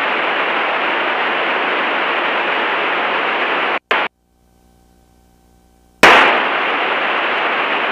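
Aircraft radio static in the headset audio: a steady hiss, as from an open channel or a keyed transmission with no voice. It cuts off abruptly about four seconds in, then comes back with a sharp pop about two seconds later.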